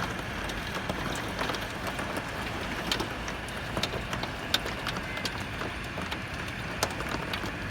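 Heavy rain pouring down steadily, with scattered drops ticking sharply against the window glass.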